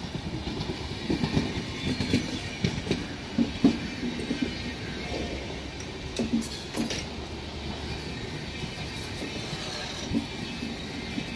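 Train rolling past on Indian Railways track, wheels clattering over the rails with a steady rumble and irregular knocks, heaviest in the first few seconds.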